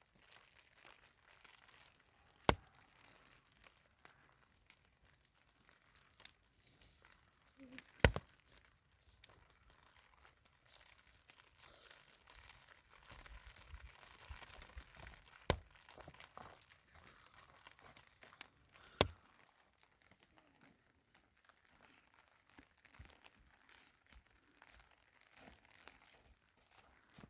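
Faint crinkling and rustling, broken by four sharp, isolated knocks or cracks spread several seconds apart.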